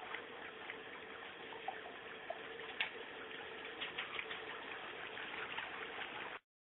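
Water running in a steady, quiet spray, with a few faint splashes and clicks; it stops abruptly near the end.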